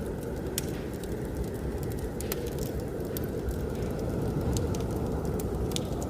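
Fireplace wood fire crackling, with scattered sharp pops at irregular intervals, over a steady low rush of blizzard wind.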